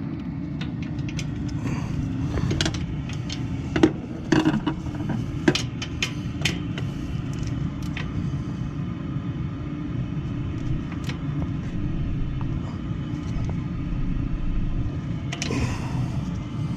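Steady low rumble of a water heater running, with a few sharp clicks and knocks from parts and tools being handled about four to six and a half seconds in.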